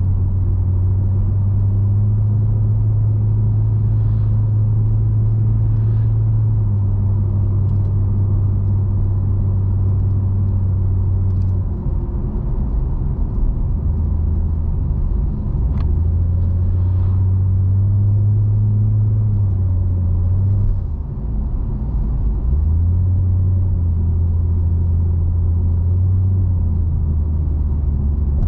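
Nissan Skyline coupe's V6 engine droning low as the car drives, with road rumble. The engine note steps up and down in pitch several times as speed or gear changes, with short dips in loudness about twelve and twenty-one seconds in.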